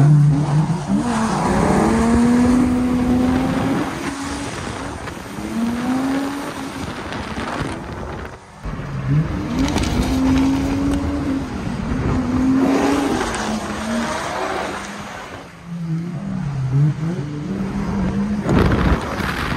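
Drift car engine revving up and down repeatedly as the car slides, with tyre squeal over it. The engine briefly drops off twice, about eight seconds in and again a few seconds before the end.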